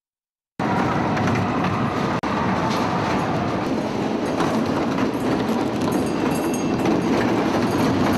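Train running along the rails with wheels clattering, cutting in abruptly about half a second in, with a momentary dropout about two seconds in.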